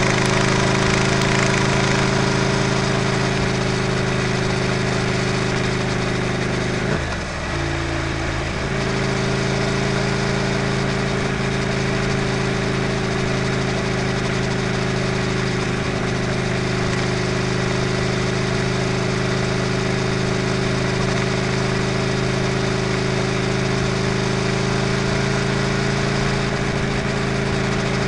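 Motorcycle engine and exhaust running at a steady cruise, close to a camera mounted by the rear wheel, with wind and road rush. About seven seconds in, the engine note dips briefly and then steadies again.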